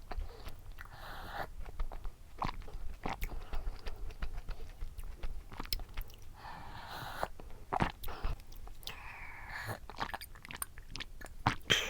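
A person biting and chewing a soft dacquoise-macaron style cookie, with many small mouth clicks and a few longer chewing smacks.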